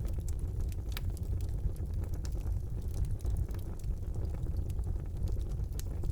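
Wood fire burning in a fireplace: a steady low rumble of the flames with many irregular sharp crackles and pops, one louder pop about a second in.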